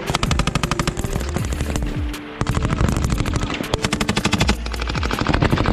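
Machine guns firing long, rapid bursts of automatic fire on a live-fire range, with several brief breaks between bursts.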